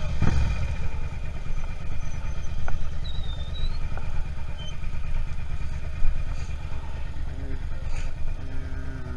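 Suzuki SV650 V-twin engine running steadily at low revs, with a fast, even low pulse; it is a little louder in the first second, then settles.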